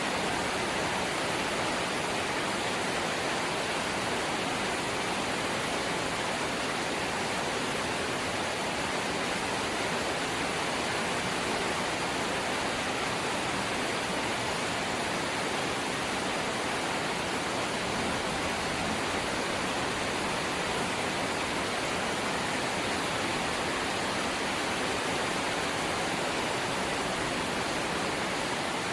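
Light rain falling steadily, an even, unbroken hiss with no single drops or other events standing out.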